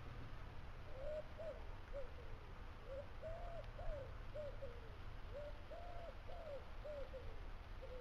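Background bird calls: a run of short, low, arched notes in small groups, a few of them drawn out, starting about a second in, over a faint low rumble.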